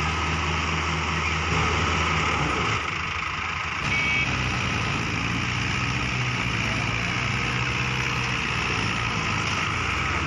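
Heavy diesel engine of a truck or tractor running steadily during a mud recovery, with a short high tone about four seconds in.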